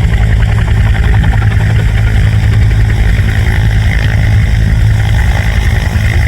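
AH-1F Cobra helicopter's turbine engine and rotor running, a loud steady drone with a strong low hum.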